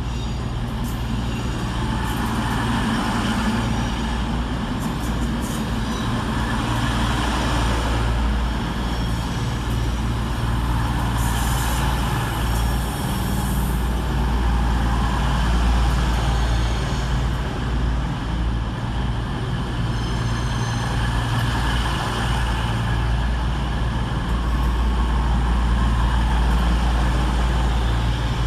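The diesel engines of a Class 221 Super Voyager and a Class 220 Voyager running at idle at the platform, a steady low drone, with a brief high hiss about eleven seconds in.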